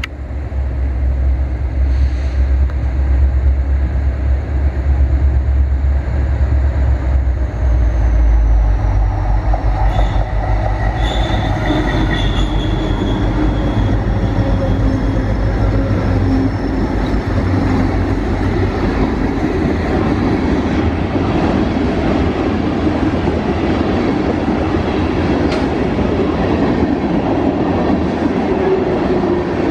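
Buffalo & Pittsburgh freight train passing: a heavy diesel-locomotive rumble for the first several seconds, then the freight cars rolling by with steady rail clatter and brief high wheel squeals about ten to thirteen seconds in.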